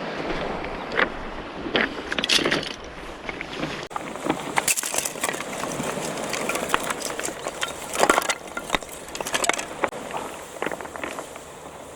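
Irregular crunches and knocks, many of them short and sharp with the loudest clusters about four and eight seconds in, from stones and gear being handled on a cobble beach while a camp is set up; sea surf and wind wash steadily behind.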